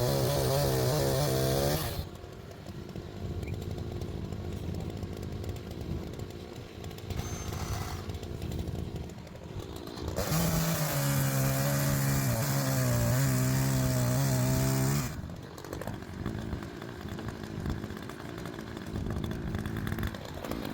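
Gas chainsaw bucking logs. It runs loud at full throttle through a cut, drops off about two seconds in, then revs up again for a second cut of about five seconds in the middle before falling back. Quieter engine running continues between the cuts.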